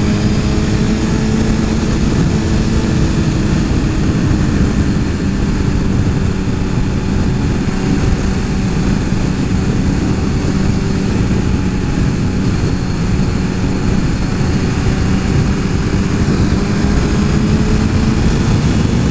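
Motorcycle engine running at a steady cruising pitch over a loud rushing noise while riding. The engine pitch sags slightly around the middle and rises near the end as the bike speeds up.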